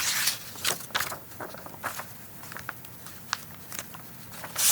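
Handling of a paper picture book as a page is turned: a soft paper swish near the start and again near the end, with scattered small clicks and rustles between.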